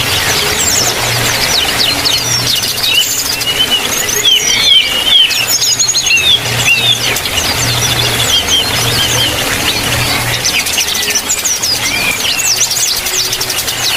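A mix of aviary birds, including yellow-vented bulbuls and smaller birds, chirping and calling in rapid overlapping notes, with short warbling phrases and wing flutters. A low hum runs underneath.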